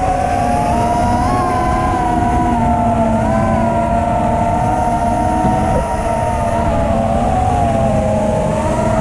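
FPV racing quadcopter's brushless motors whining, several close tones wavering up and down in pitch as the throttle changes, over a low rush of wind noise.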